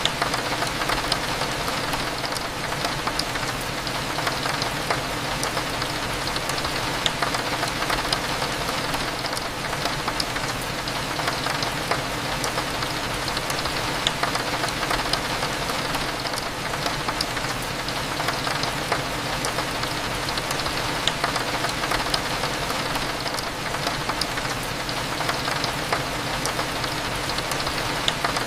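Steady rain with many small drops ticking against a window glass, over a low, steady cafe hum.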